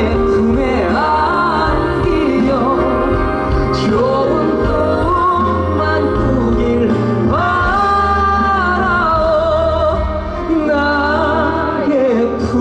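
Live pop-ballad performance: a male vocalist singing a held, gliding melody over a full band with steady bass, amplified through a concert sound system.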